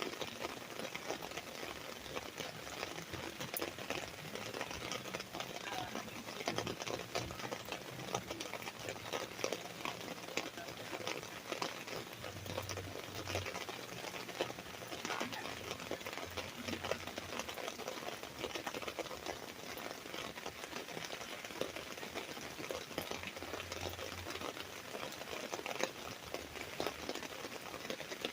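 Rain falling on an umbrella: a steady, dense patter of drops tapping on the fabric canopy. A faint low hum comes in twice, about halfway through and again near the end.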